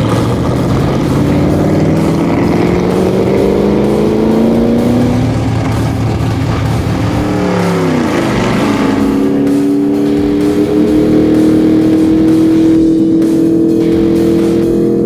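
A race car engine accelerating hard, its pitch climbing steadily, then dropping sharply about eight seconds in before it climbs again. Music plays underneath.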